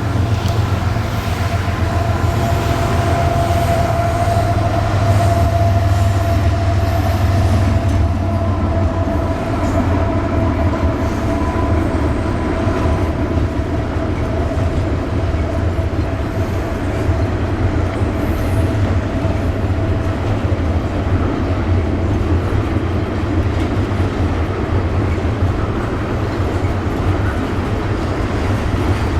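CSX intermodal freight train passing: a continuous rumble of wheels on rail. A steady high tone rides over it for about the first twenty seconds, then fades.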